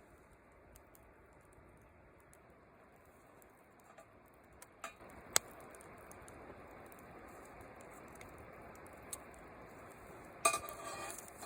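Metal camping gear being handled: two sharp clicks about five seconds in, then a louder metallic clatter and clink with a brief ringing near the end. A faint steady patter with small scattered clicks runs underneath.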